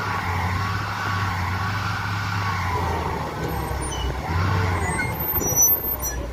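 Heavy diesel machinery, likely the excavators, running steadily under load, with high wavering squeals and creaks rising and falling over the engine hum.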